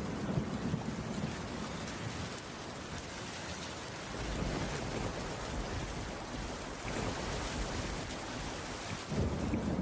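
Steady rain falling on a wooden roof, an even dense hiss. A low rumble underneath at the start fades after about a second and comes back near the end.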